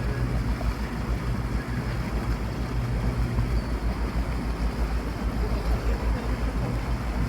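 Boat engine running steadily with a low hum, over the rushing of water and wind buffeting the microphone.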